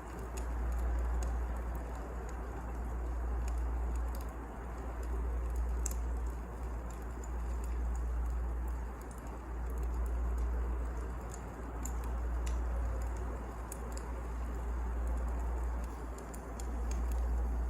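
Wood fire burning: a steady low rumble that swells and fades about every two seconds, with scattered faint crackles and pops.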